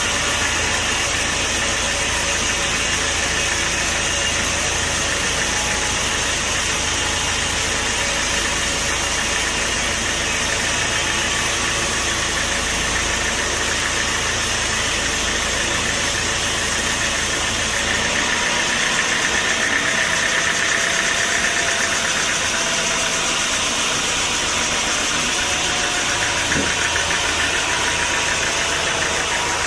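Sawmill machinery running steadily with an engine-like drone; the deep low hum drops away about eighteen seconds in.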